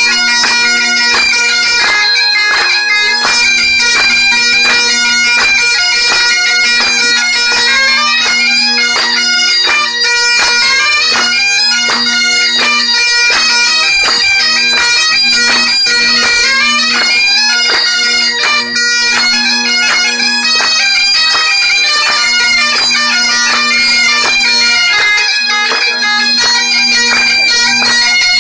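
Two bagpipes playing a tune in unison, a steady drone held under a fast-moving chanter melody.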